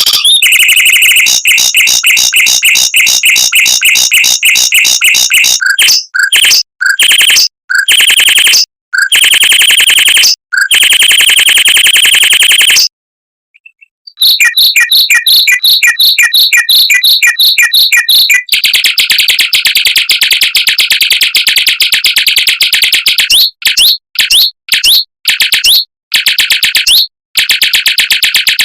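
Mockingbird singing long, fast rolls of rapidly repeated high notes. There is a short pause about halfway through, after which the roll turns denser and steadier, with several brief breaks near the end.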